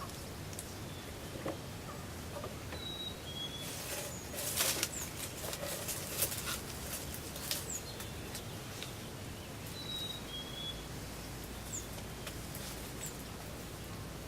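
Small birds chirping in the background, short high notes that repeat every second or two, over quiet outdoor air. A burst of rustling about four seconds in is the loudest sound, with a few single rustles after it.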